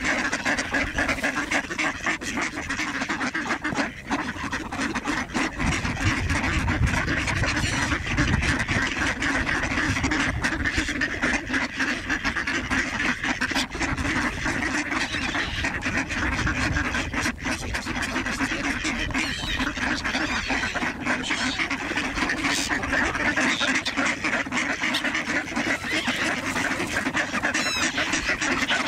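A large mixed flock of ducks and geese calling all at once: a continuous din of overlapping quacking and honking.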